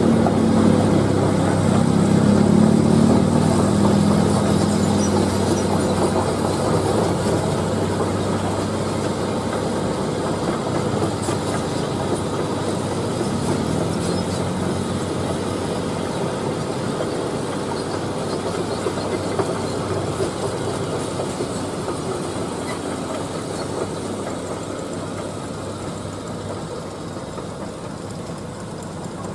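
Heavy diesel machinery running with a steady mechanical clatter, loudest at first and slowly growing quieter.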